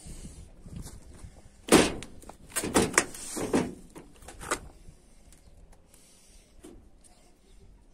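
A series of knocks and bangs: one sharp loud bang about two seconds in, then several quicker knocks, the last about four and a half seconds in.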